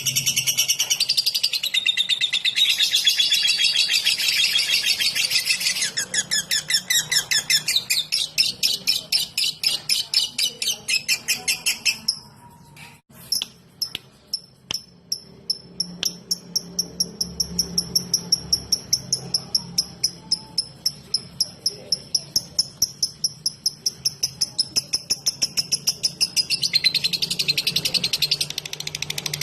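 Lovebird in 'ngetik' song: a fast, typewriter-like string of sharp high chattering notes, about five a second. It breaks off briefly about twelve seconds in, resumes as a thinner run of ticks, and grows dense again near the end.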